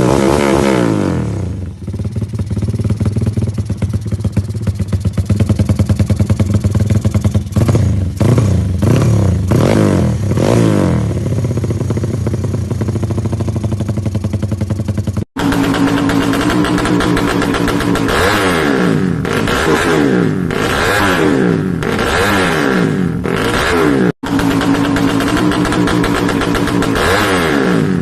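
Motorcycle engine breathing through a Pekajaman aftermarket muffler: idling steadily, then revved in a few short throttle blips, and after a cut revved up and down over and over. The sound cuts off abruptly twice.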